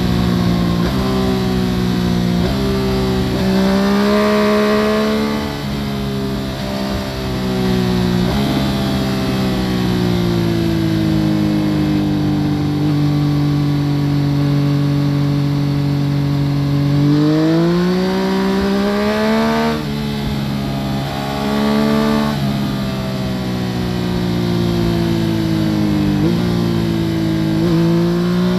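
2014 Yamaha FZ-09 three-cylinder engine through an Akrapovic full exhaust system, heard from under the seat while riding. It revs up and shifts gears several times, holds a long steady cruise in the middle, then pulls hard again about seventeen seconds in, with more shifts after that.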